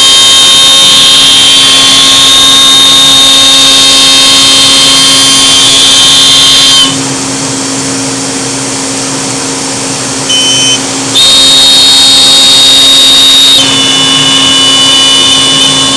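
Laguna CNC router running: a steady high spindle whine over a loud hiss and a low hum. About seven seconds in the whine and hiss drop away for a few seconds while the hum carries on. The whine then returns and the full sound resumes, the whine a little lower in pitch.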